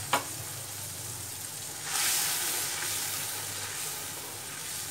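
Wet spice paste of curd, cashew, green chili and ginger sizzling in hot oil in a kadai while a spatula stirs it, with one sharp click near the start. The sizzle grows louder about two seconds in, then slowly dies down as the masala is fried down.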